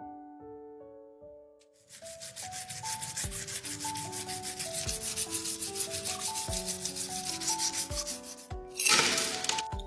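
Rapid, even back-and-forth sanding strokes, several a second, starting about two seconds in, over background piano-like music. Near the end the strokes stop and a louder rushing noise lasts about a second.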